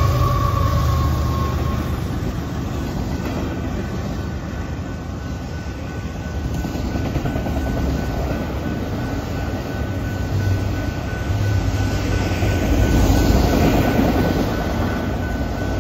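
Diesel-hauled freight train passing: the horn's last note falls slightly in pitch and fades in the first two seconds. Then the locomotives and rolling freight cars give a steady rumble, with a thin, steady high whine over it, and the sound grows louder near the end.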